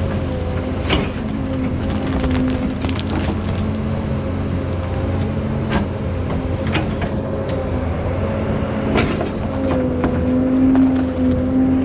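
Kobelco 210 excavator's diesel engine running steadily under hydraulic load, its pitch wavering slightly as the machine works. Scattered sharp cracks and knocks sound over it.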